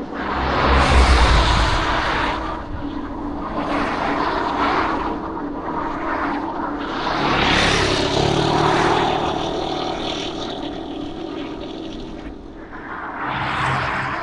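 Road traffic: about four motor vehicles passing one after another, each one's engine and tyre noise swelling and fading, with a low rumble of wind on the microphone about a second in.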